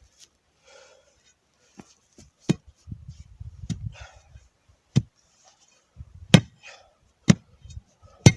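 A shovel striking and cutting into dense soil about six times, roughly once a second, with scraping of earth and blade between the strikes.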